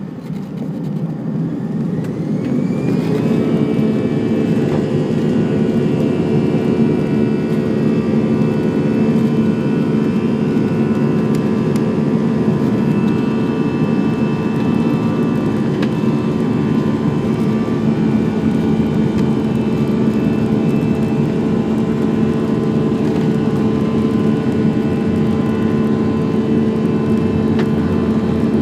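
Airbus A320 jet engines spooling up to takeoff thrust, a rising whine over the first three seconds, then running steady and loud through the takeoff roll, heard from inside the cabin.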